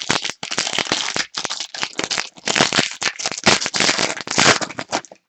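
Foil trading-card pack wrapper crinkling loudly as it is torn open and handled close to the microphone. A dense run of irregular crackles stops about five seconds in.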